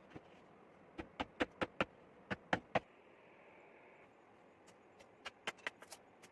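Two quick runs of light, sharp taps, about eight in under two seconds and then another handful near the end, over a faint steady hiss.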